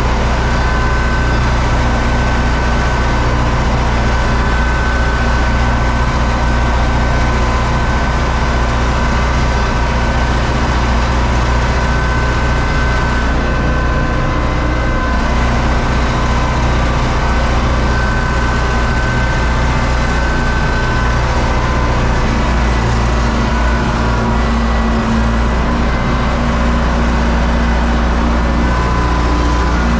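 U650 tractor's four-cylinder diesel engine running steadily, with a steady high whine over it.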